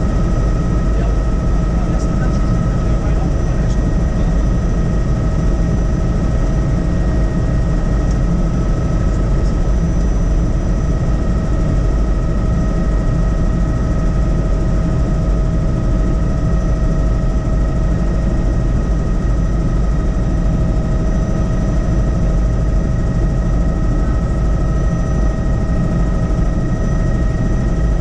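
Helicopter in flight: a steady, loud drone of rotor and engine with a constant high whine over it.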